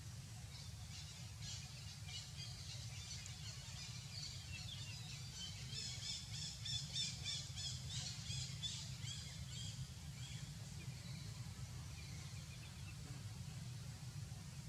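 Small bird chirping in a rapid run of high, evenly repeated notes, loudest in the middle and dying away about two-thirds of the way through, over a faint steady low rumble of outdoor ambience.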